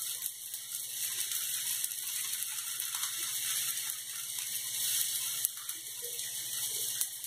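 Semolina (suji) cutlet sizzling steadily in a frying pan, an even high hiss.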